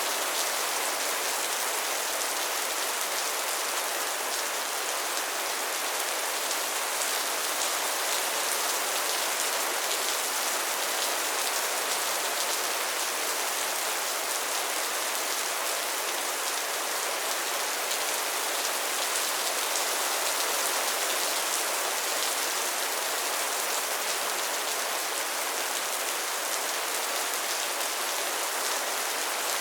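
Steady rain falling, an even hiss of many drops that does not rise or fall.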